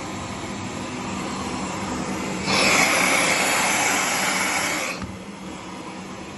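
Zanussi FLS-822CH washing machine running with a steady low hum. About two and a half seconds in, a loud hissing rush starts abruptly, lasts about two and a half seconds, then cuts off.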